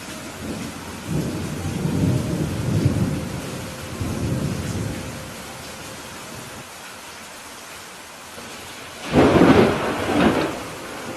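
Steady rain with thunder: a low rolling rumble through the first half, then a louder, sharper thunderclap near the end.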